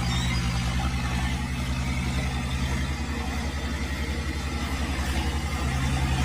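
Tractor diesel engine running steadily, with an even, rapid low throb.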